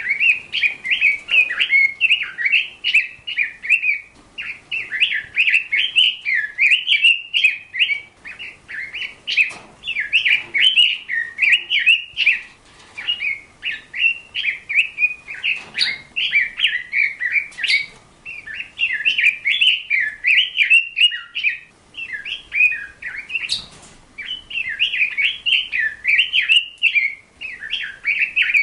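A bird twittering and warbling without pause, in fast chirping phrases of one to three seconds with short breaks between them.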